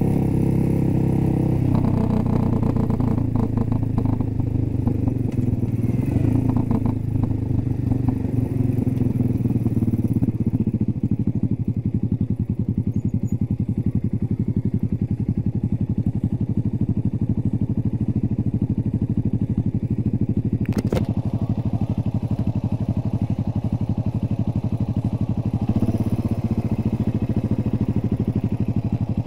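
A 2006 Suzuki S40 Boulevard's 650cc single-cylinder engine runs as the bike rolls and slows, then idles from about ten seconds in with a steady, low, rapid thumping. A single sharp click comes about two-thirds of the way through.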